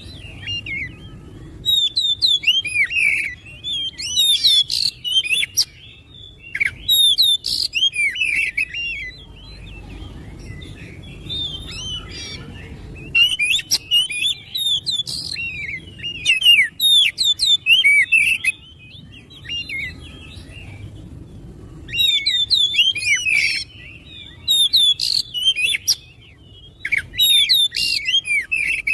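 Oriental magpie-robin (kacer) singing loud, varied phrases of rapid whistled notes that rise and fall. The song comes in bursts of a few seconds with short pauses between.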